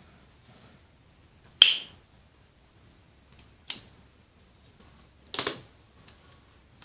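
Three sharp clicks or knocks of small hard parts being handled, the first and loudest with a brief bright metallic ring and the last a quick rattle of several clicks.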